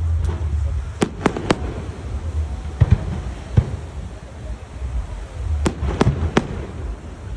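Fireworks display: about nine sharp bangs of bursting aerial shells, coming in small clusters of two or three, over a low rumble.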